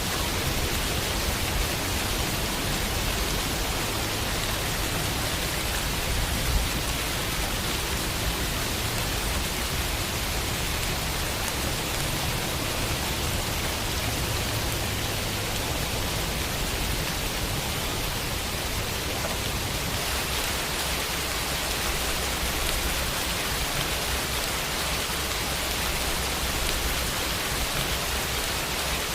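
Steady rain falling and pattering on a window, a dense even hiss with a low rumble underneath.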